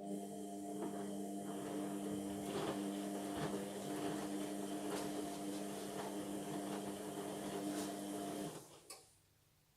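Indesit washing machine's drum motor turning the drum during the wash phase, a steady motor hum with irregular knocks from the tumbling load, running for about eight and a half seconds and then stopping, followed by a single click.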